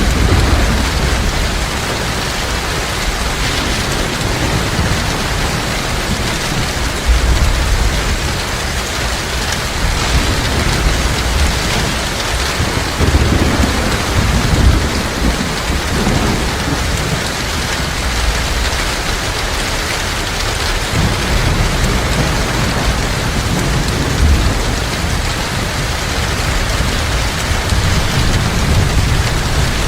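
Heavy rain pouring steadily, with low thunder rumbling underneath that swells about a quarter of the way in, again around the middle, and through the last third.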